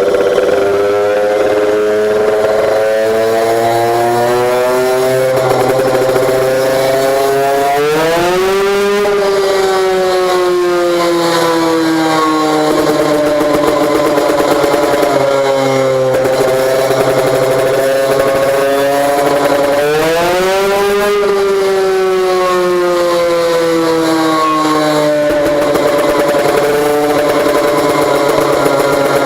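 Motorcycle engine breathing through a competition-spec HPM racing exhaust, revving up and down continuously, with sharp climbs in revs about eight seconds in and again about twenty seconds in, each easing slowly back down.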